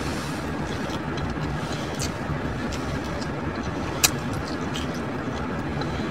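Eating sounds from a crunchy taco: a few short sharp crunches or clicks, the loudest about four seconds in, over a steady low background rumble.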